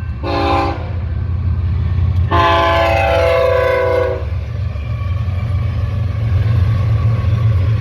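BNSF freight train's diesel locomotive sounding its air horn: a short blast, then a louder chord-like blast of about two seconds, over the steady low rumble of the locomotive and train.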